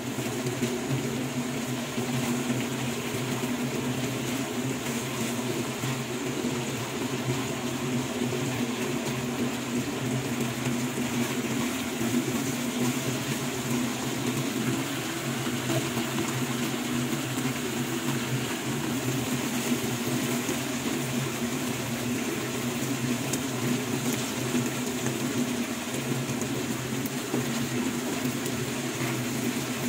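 Pork and chicken livers frying in hot oil in a pan: a steady sizzle and bubbling, over a steady low hum.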